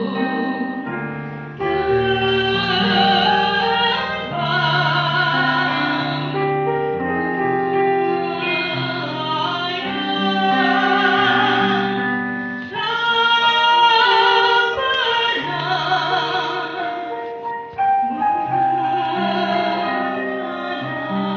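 A young woman singing solo in a pop-opera style, holding long notes with vibrato, over an arranged instrumental accompaniment.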